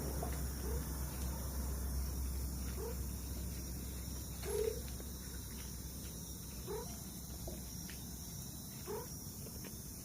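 A nighttime chorus of animal calls: short rising notes come about six times at irregular gaps, over a steady high-pitched insect drone and a low rumble.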